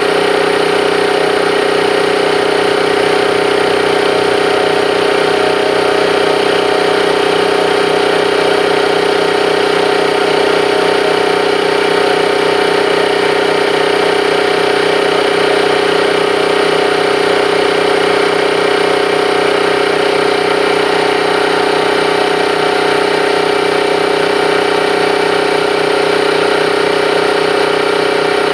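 Bauer Junior II E high-pressure compressor running steadily under its electric motor during a pressure test: a loud, even machine hum with one strong steady tone and no change in speed.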